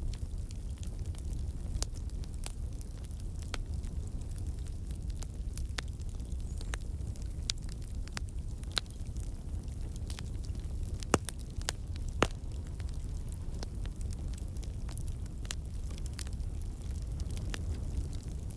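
Wood fire burning in a fireplace: a steady low rumble of the flames with scattered crackles and sharp pops, two louder pops about a second apart near the middle.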